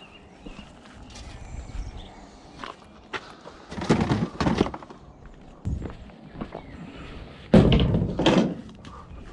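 Scrap being handled and dropped: small knocks, then two loud bouts of heavy thunks and clatter, one about four seconds in and a louder one near the end.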